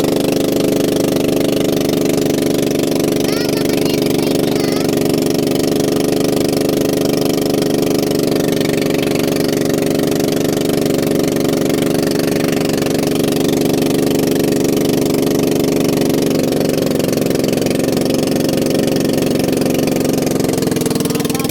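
An engine running steadily at a constant speed, its note shifting a little near the end.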